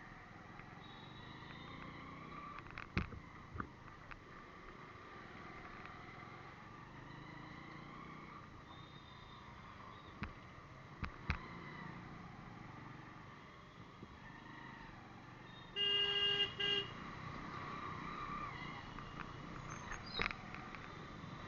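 Road traffic, with a vehicle horn honking about three-quarters of the way through: one long blast with a short break in it. A few short clicks come earlier on.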